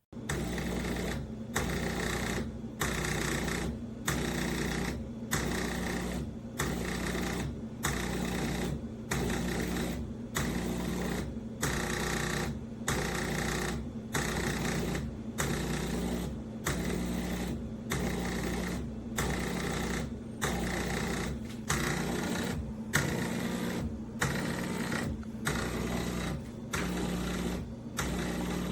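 Café Affetto automatic espresso machine running, a steady hum broken into even pulsing strokes, about three every two seconds, starting abruptly.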